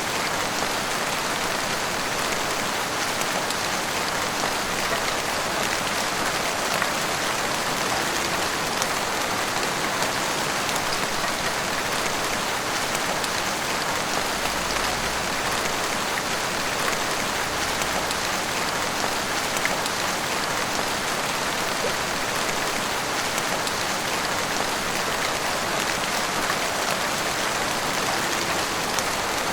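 Heavy rain falling steadily, pattering on rooftops and the street, with scattered individual drop ticks.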